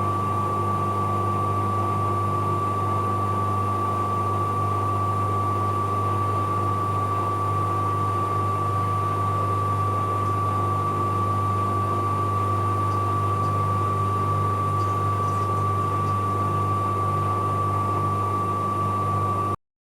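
Bauknecht Super Eco 7615 washing machine spinning at a steady speed: its inverter motor gives a steady high-pitched whine over a low hum. The sound cuts out briefly just before the end.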